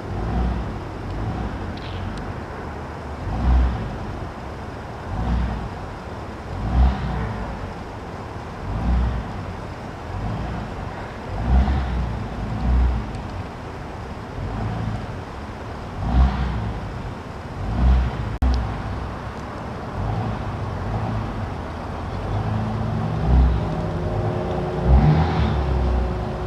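Road traffic noise: vehicles running, with short low rumbles every second or two. Near the end a steady engine hum comes in.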